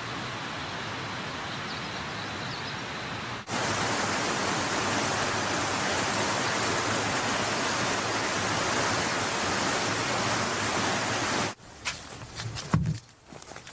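Steady rushing outdoor noise that gets louder in a sudden step about three and a half seconds in, then cuts off near the end and gives way to a few scattered knocks.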